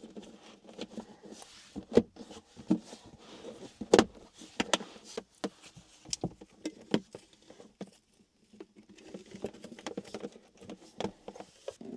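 Irregular clicks, knocks and light rattles of gear being handled as a small electric coffee kettle is set up and plugged into a portable power station, with a sharper knock about two seconds in and a louder one about four seconds in.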